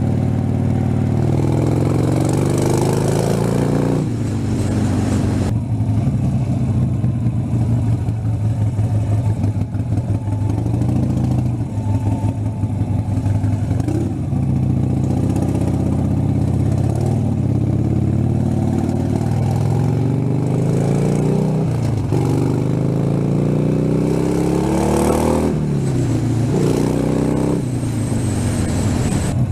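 Harley-Davidson Sportster 72's V-twin engine running under way, its pitch rising and dropping back several times as the bike accelerates and shifts gears.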